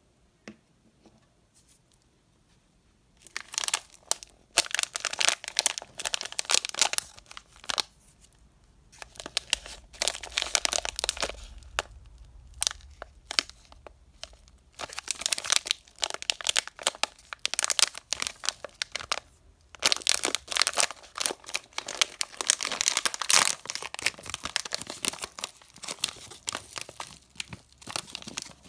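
Candy packaging being crinkled and torn open by hand, in bursts of crackling with short pauses, starting about three seconds in.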